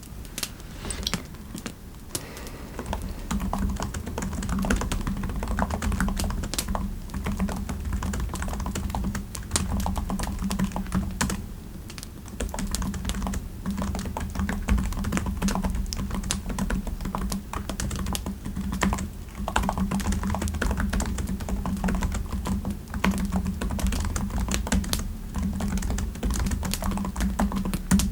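Steady typing on a computer keyboard: a dense, irregular run of key clicks over a low steady hum.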